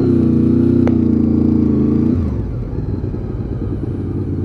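Honda VFR800's V4 engine pulling at steady revs on the road, then easing off about two seconds in as the revs drop.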